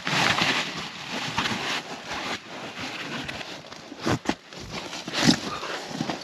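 Rustling and handling of camping gear and bedding, with a couple of sharp knocks about four seconds in and a louder thump a second later.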